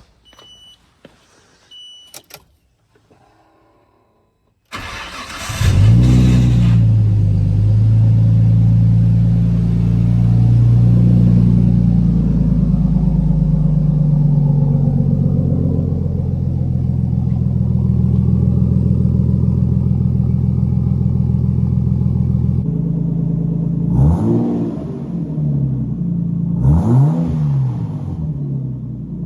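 A few short electronic beeps, then the BMW E93's engine cranks and catches about five seconds in and idles loudly through a freshly built exhaust with the silencer removed. Near the end the throttle is blipped several times, the revs rising and dropping back quickly.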